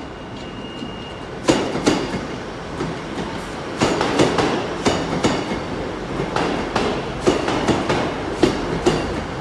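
Passenger train pulling into a station platform, its wheels clicking over rail joints, often in pairs, from about a second and a half in, over a steady rumble.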